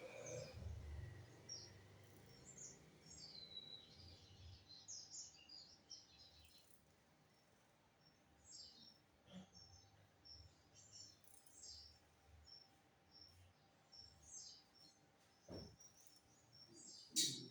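Lined seedeater (bigodinho) singing faintly in short, high chirping phrases, with a sharp click about a second before the end.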